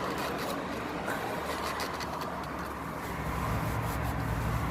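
A motor vehicle's engine running close by, its low hum growing louder about three seconds in, over a steady background hiss with a few light clicks.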